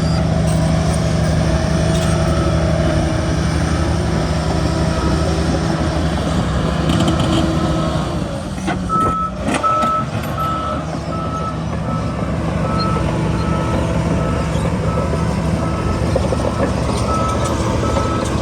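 Heavy diesel earthmoving machinery running steadily, with a reversing alarm beeping about twice a second; the beeps grow clearer about halfway through.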